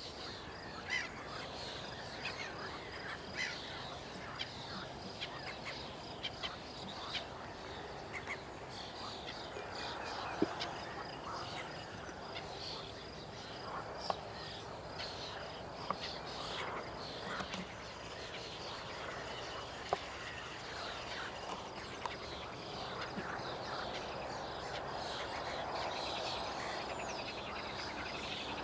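Birds calling at a lakeside: many short chirps and calls, with a few sharper louder notes, over a steady high-pitched evening chorus.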